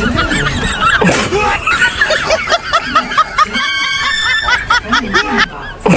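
Several people snickering and laughing over music, with a held steady note about two-thirds of the way through.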